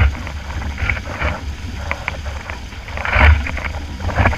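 Wind buffeting the microphone and water rushing past the hull of a 49er skiff sailing in gusty wind, with a louder surge about three seconds in.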